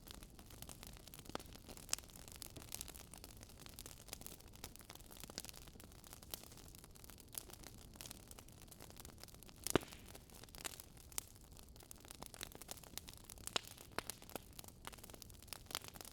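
Wood fire crackling, with faint irregular pops and snaps over a soft steady hiss and one sharper pop about ten seconds in.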